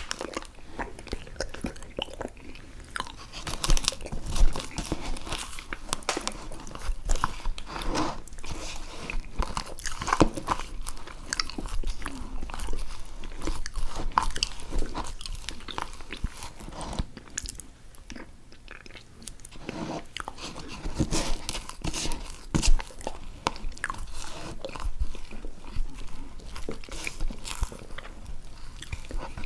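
A person eating into a close microphone: bites and chewing with many sharp, irregular crunches throughout.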